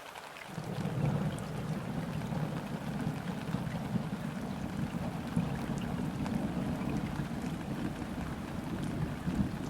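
Steady rain falling on a river's surface, with a low rumble that sets in about half a second in and keeps going underneath the rain.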